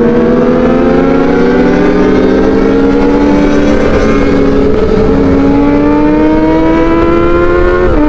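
Kawasaki ZX-25R's inline-four engine breathing through an Arrow Pro Race exhaust, running at high revs under way. The pitch climbs slowly, eases briefly midway, climbs again and drops suddenly near the end, like a throttle lift or gear change, with wind rumble underneath.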